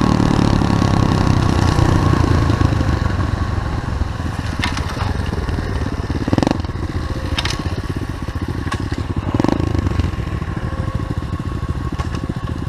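SSR 125cc pit bike engine running under way, heard from the rider's helmet with a rough, noisy rush. Several sharp knocks and clatters from the bike come through over the ride.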